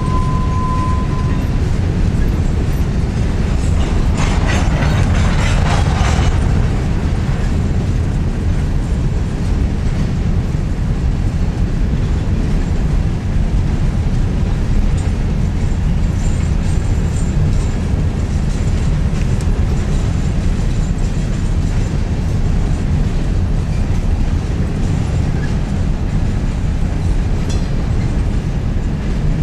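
Freight train of covered hopper cars rolling past: a steady low rumble of steel wheels on rail, with a brief harsher rattle about four to six seconds in.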